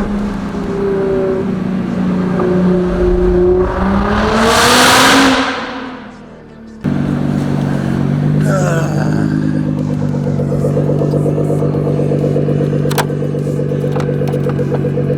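Nissan GT-R R35's twin-turbo V6 through a Linney drag exhaust pulling hard, its pitch rising to a loud rush about four to five seconds in, then easing off. After a sudden cut about halfway, the engine drones steadily at cruise.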